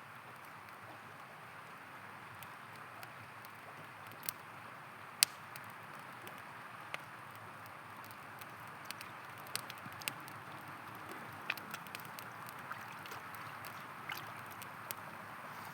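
Steady rush of river water, with the sharp crackles and pops of a wood campfire scattered irregularly through it, the loudest pop about five seconds in.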